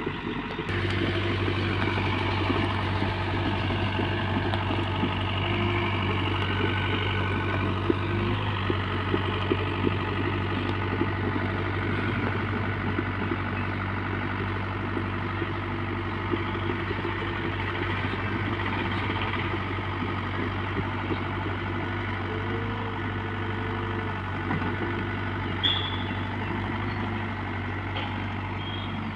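Heavy diesel engine running steadily, stepping up in level about a second in, with a few light clicks and knocks over it.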